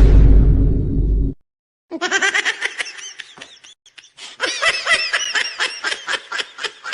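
A loud, deep booming hit lasting about a second, then high-pitched laughter in rapid repeated pulses, several a second, that tails off near the end.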